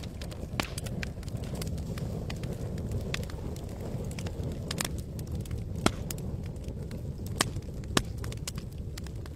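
Wood campfire crackling, with irregular sharp pops and snaps, a couple of them louder near the end, over a steady low rumble.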